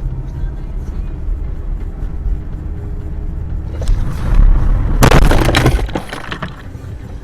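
Car driving with steady engine and road rumble, then a loud car crash about five seconds in: a sudden impact followed by about a second of crunching, breaking noise.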